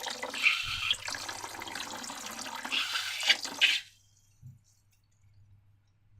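Wet liquid sounds, a sloshing, crackling hiss with a couple of louder wet smacks near three seconds in, stopping abruptly after about four seconds.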